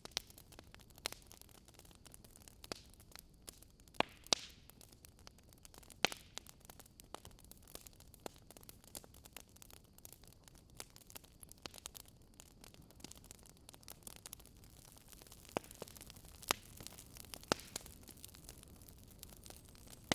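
Wood campfire crackling, with irregular small snaps and a few sharper pops: two close together about four seconds in, one about six seconds in, and more near the end. A faint steady rush of the river runs underneath.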